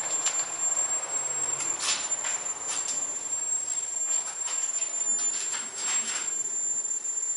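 Irregular short scrapes and clinks of hand tools working on metal, over a steady high-pitched whine.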